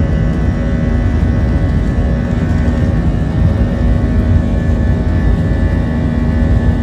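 Airbus A320 jet engines running, heard from inside the passenger cabin: a steady, loud rumble with a steady whine over it.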